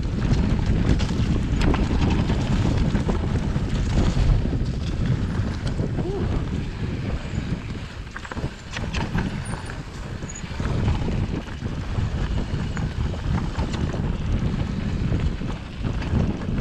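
Wind rushing over the microphone during a mountain-bike ride on a dirt trail, with a low rumble and scattered rattles and knocks from the bike going over rough ground; it quietens briefly about halfway.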